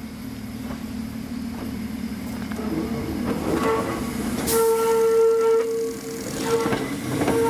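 Hakone Tozan Railway 2000-series electric railcar approaching at low speed, its running noise growing louder. About four and a half seconds in, a steady high squeal from the wheels on the curve sets in and holds.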